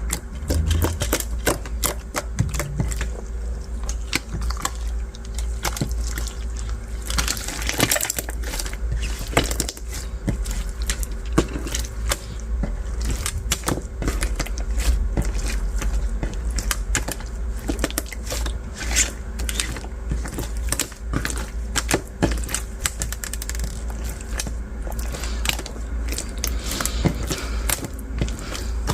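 Translucent bead slime being squished and kneaded by hand, with a dense, irregular crackling and clicking of the beads and slime.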